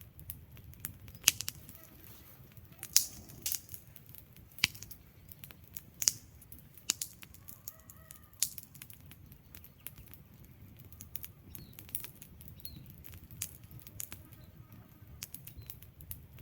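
Wood fire burning in a fireplace: logs crackling with irregular sharp pops, several of them loud, over a low steady rumble of flame. A faint brief whistle comes about eight seconds in.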